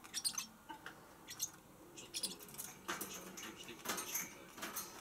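Pacific parrotlet giving short, high-pitched chirps and squeaks at irregular intervals.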